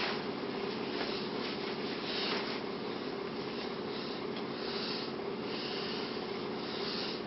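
Steady low hum of room noise, with faint rustling and scraping over it.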